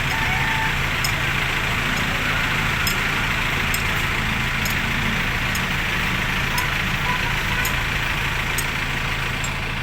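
A motor-vehicle engine idling steadily, with faint sharp ticks about once a second.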